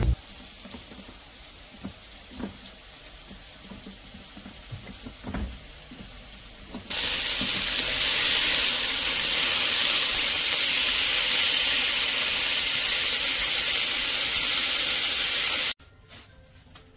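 Sliced pork and onions sizzling in a hot pan as they are stir-fried with chopsticks: a loud, steady sizzle that starts suddenly about seven seconds in and cuts off abruptly near the end. Before it there are only a few soft knocks.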